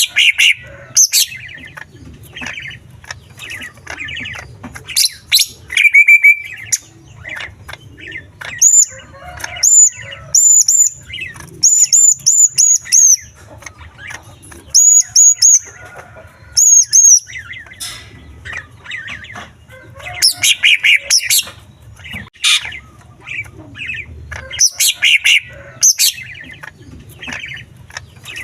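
Green leafbird (cucak ijo) singing loudly and continuously, a varied song full of imitations of small birds' calls: fast chattering phrases, and in the middle several quick runs of short, high whistled notes.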